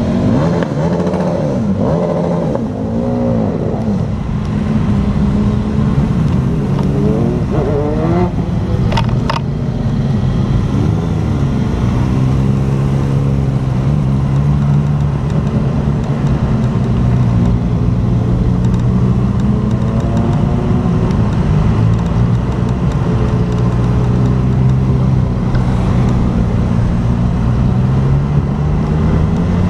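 Honda motorcycle engine running under way, heard from the bike itself. Its pitch rises and falls with throttle and gear changes, then holds a steady note for a long stretch before rising again near the end. Two short clicks come about eight to nine seconds in.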